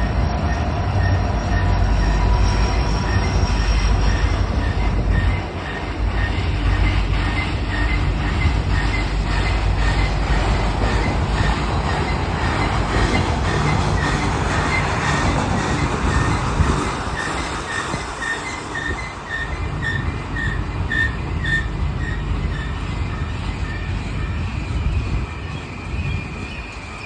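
Union Pacific manifest freight train rolling past, with wheels squealing and a rhythmic clicking over the rail joints. A heavy low rumble in the first few seconds eases off after about five seconds.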